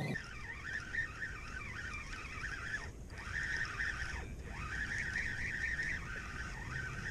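Many birds chirping and twittering over each other in a continuous chatter, with two brief lulls partway through.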